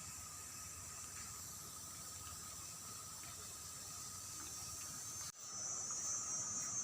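Faint outdoor ambience with a steady, thin insect drone; after a brief dropout about five seconds in, a louder, high-pitched insect chorus of crickets or cicadas sets in.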